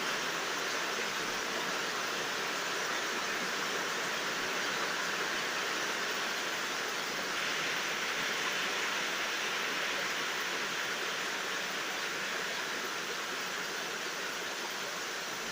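Steady rain falling, an even hiss with no thunder, a little brighter from about halfway through.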